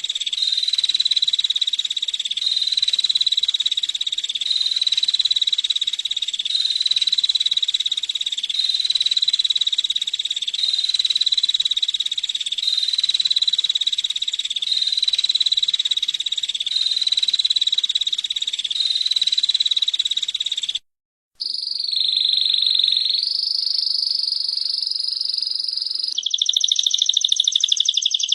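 Female prinia (prenjak) call: a fast, buzzy trill at one high pitch, repeated in unbroken phrases of about a second. It cuts out for a moment about three-quarters of the way through. Other trilling bird song then follows, growing louder near the end.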